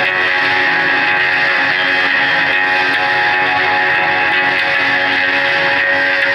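Live band playing loud electric guitar music, a dense wall of held, sustained notes that keeps an even level.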